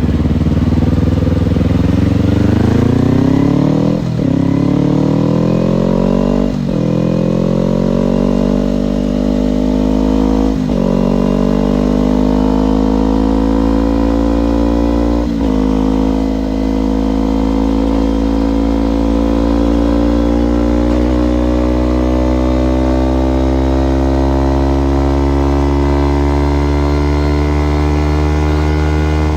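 Kawasaki Ninja motorcycle's parallel-twin engine accelerating up through the gears. The revs climb and drop sharply at four upshifts a few seconds apart, then rise slowly and steadily in a higher gear.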